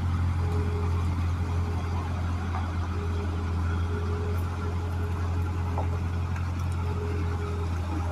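An engine running steadily: a low, even hum with a faint higher whine that comes and goes.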